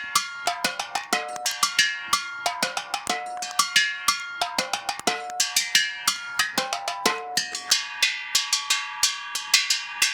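Empty steel gas cylinder (bujão) struck with drumsticks in a fast rhythmic pattern, about five hits a second, each hit ringing on at one of several metallic, bell-like pitches.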